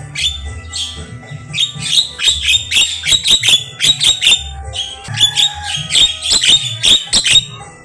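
Javan myna singing a fast, varied chattering song of sharp clicks and squawky notes, many per second, over a low steady hum.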